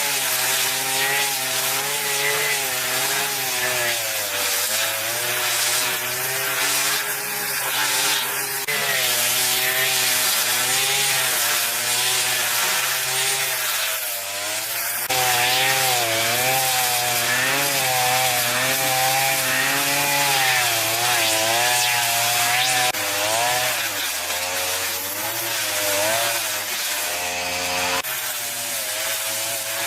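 Chainsaw cutting wood, its engine pitch wavering up and down as it works through the log, with abrupt jumps in the sound about halfway through and again near the end.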